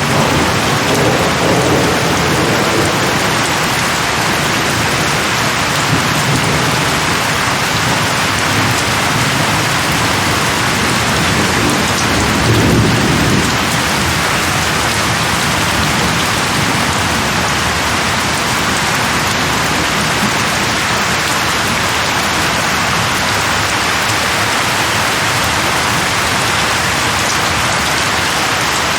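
Steady heavy rain falling on leaves, with low rumbles of thunder about a second in and again about halfway through.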